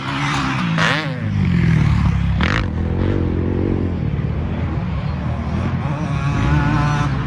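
Several off-road racing engines revving at once, their pitch rising and falling as the throttles open and close.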